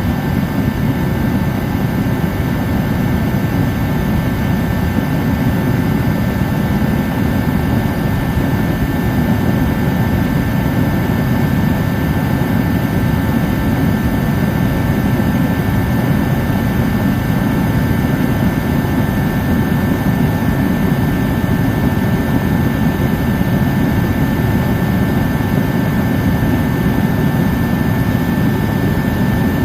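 Dyna-Glo KFA80H 80,000 BTU forced-air heater running on diesel, its burner and fan giving a steady, even roar with a thin steady whine over it. It is burning poorly, spitting out diesel and not giving the heat it should.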